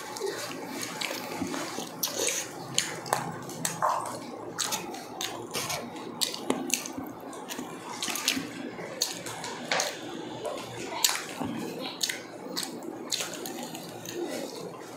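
Close-miked eating sounds: chewing and wet lip smacks from people eating roast chicken and grilled pork with their hands, a quick irregular run of short wet clicks.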